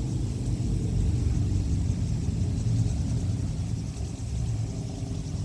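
Wind buffeting the microphone, an uneven low rumble that swells slightly about a second in.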